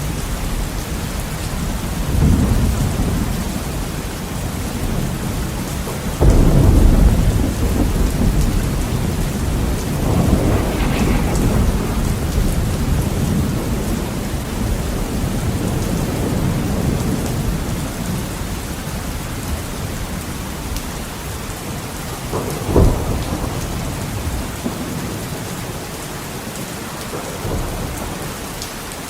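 Heavy rain beating steadily on a window, with thunder rolling through it: a loud low rumble breaks about six seconds in, another swells a few seconds later, and a short sharp crack comes about two-thirds of the way through.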